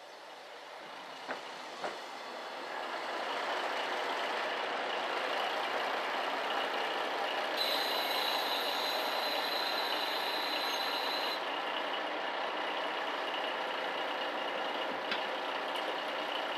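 Diesel railcar pulling into a station and drawing to a stop, its running noise building over the first few seconds and then holding steady. In the middle it gives a high, steady squeal for a few seconds as it brakes.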